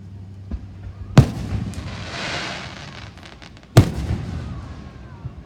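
Aerial fireworks bursting: two loud booms about two and a half seconds apart, each echoing away, with crackling between them and a small pop before the first.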